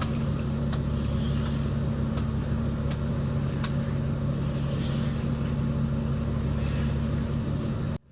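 Fishing boat's inboard engine running with a steady low drone, a few faint knocks over it; the sound cuts off abruptly near the end.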